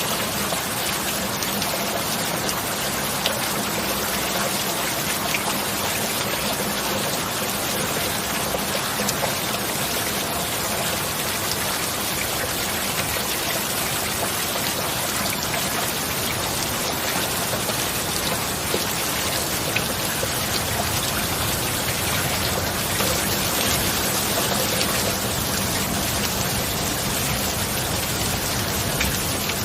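Steady heavy rain: a dense, even hiss of falling water with many small drop ticks, and a faint steady low hum underneath.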